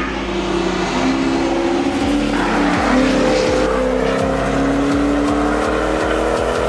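Mercedes-Benz SL500 (R129) M119 V8 driven hard on track, passing close about two seconds in and accelerating away, the engine note climbing steadily in pitch.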